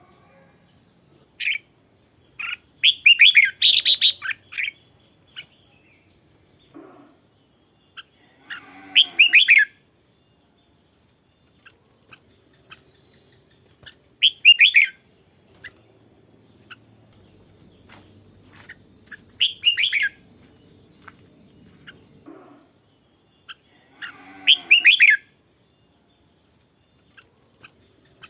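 Red-whiskered bulbul singing short, quick chirping phrases, about one every five seconds, with a faint steady high-pitched whine underneath throughout.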